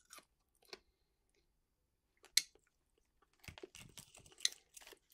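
A person chewing dry whole roasted crickets: faint, scattered crunches, one sharper crunch about halfway, then a quick run of small crunches near the end.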